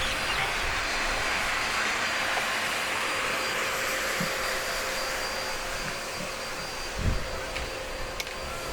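Aircraft passing overhead: a rushing noise that is strongest at first and slowly fades. A single low thump about seven seconds in.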